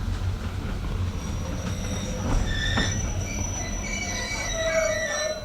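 Heritage railway carriage running on the rails with a steady low rumble. About two seconds in, several high, steady squeals of steel wheels on the rails join it.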